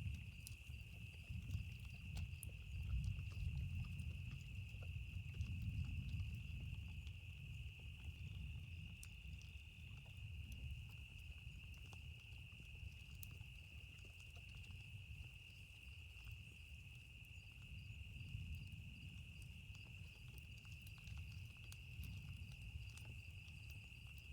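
Distant thunder rumbling low, swelling and fading twice, over sparse campfire crackles and a steady high insect drone.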